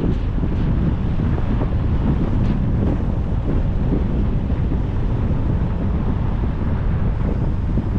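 Steady wind buffeting the microphone over the low road rumble of a moving car.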